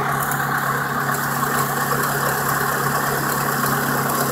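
1989 Honda Accord's four-cylinder engine idling with the air conditioning running, heard close up under the open hood: a steady hum with a steady hiss over it.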